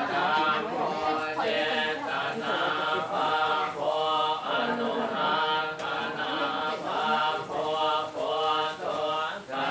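Buddhist chanting by a group of voices in unison, held on a near-steady pitch with evenly paced syllables about two a second.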